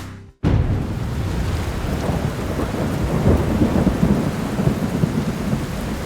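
Heavy rain with thunder rumbling underneath. It starts abruptly about half a second in and stays steady.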